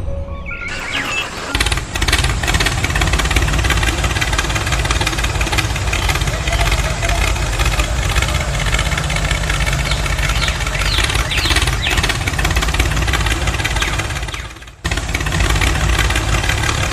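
Tractor engine running steadily. It cuts out briefly near the end and starts again.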